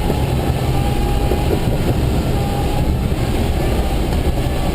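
Steady, loud low rumble of a running engine with rushing air noise and a faint steady whine.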